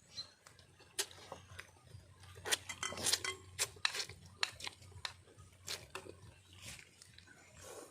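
Eating at a meal: irregular sharp clicks and smacks of chewing and of dishes being handled.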